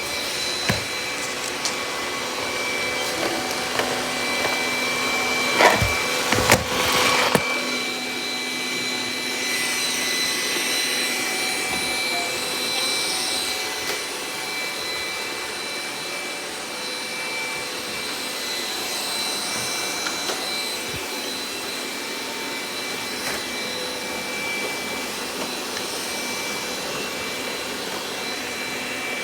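Robot vacuum running, a steady fan and brush noise with a high motor whine, with a few sharp knocks about six to seven seconds in.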